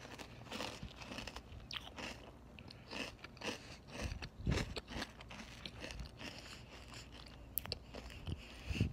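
A person chewing a mouthful of Cinnamon Toast Crunch cereal: many irregular, crisp crunches.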